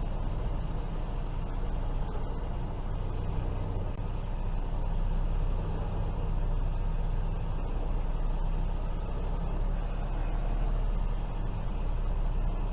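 Semi truck's diesel engine running steadily at low revs while the rig reverses slowly, heard from inside the cab.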